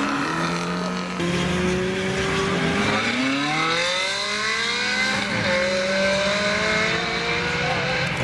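Sports car engines accelerating, the pitch climbing, dropping back and climbing again several times, with more than one engine note heard at once.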